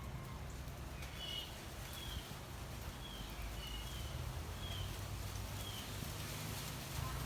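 Small songbirds chirping: short, high, slightly falling chips, about one or two a second, over a steady low hum.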